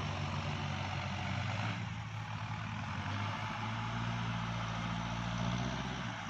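Kubota farm tractor's diesel engine running steadily, its note shifting about two seconds in.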